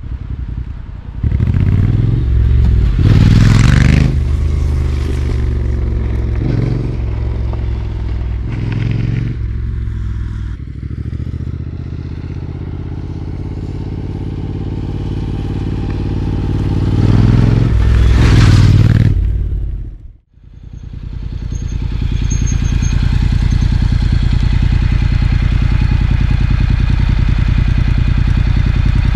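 Motorcycle engine running, revved up twice. It cuts out for a moment about twenty seconds in, then runs steadily with an even pulse.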